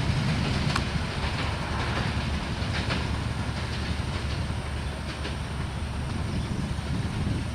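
Bangladesh Railway intercity passenger train rolling past with a steady rumble, its wheels clicking over the rail joints now and then.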